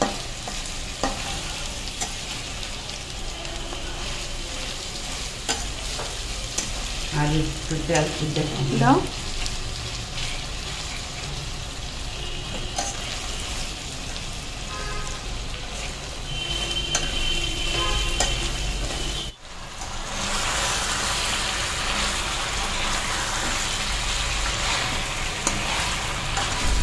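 Food frying and sizzling in a pan as it is stirred, with occasional utensil clicks. About two-thirds of the way through, the sound breaks off and resumes as a louder, steadier sizzle.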